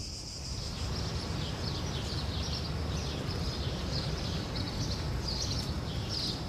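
Small birds chirping in short, repeated high notes over a steady low rumble of outdoor background noise.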